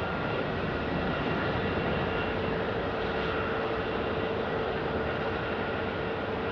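Jet airliner engines running as a steady rush of noise, with a steady whine that comes in about a second and a half in.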